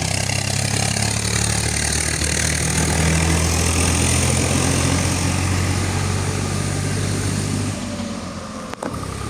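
Motorcycle engine running at a steady speed, with a hiss of noise above it. The engine note changes and drops slightly about eight seconds in, and there is a short click near the end.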